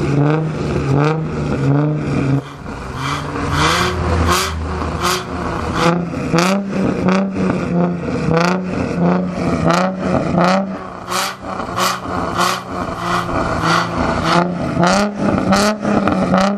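Infiniti G35 Coupé's 3.5-litre V6 revved over and over in quick throttle blips, each a short rising note, through a full 63 mm performance exhaust.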